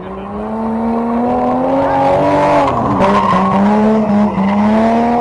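Car engine revving hard and held at high revs, its pitch dipping briefly about three seconds in and then rising again.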